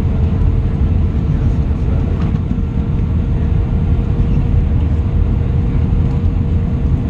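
Airbus A320 cabin noise: a steady, loud low rumble of engines and airflow, with a steady hum running through it.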